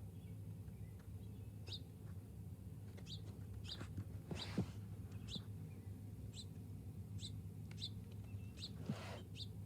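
Small songbirds at a feeder giving a run of short, high chirps that slide downward, about one every half second to second. Two brief rustling noises break in, the louder one about halfway through and another near the end, over a steady low hum.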